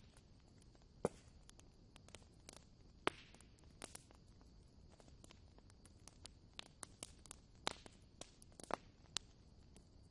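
Wood fire crackling in a fireplace: irregular sharp pops and snaps over a faint steady hiss, a few louder pops standing out.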